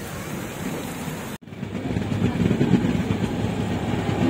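Rain falling on the tracks beside a halted express train. About a second and a half in, an abrupt cut gives way to a train running on the rails, a louder, dense rumble.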